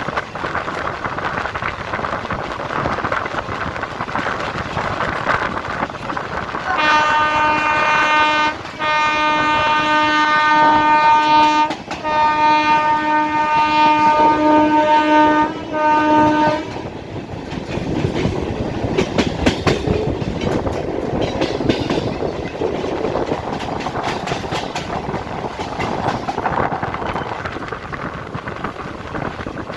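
Old EMU local train running, its wheels clicking over the rail joints, while the train's horn sounds four blasts in a row in the middle, the loudest sound throughout.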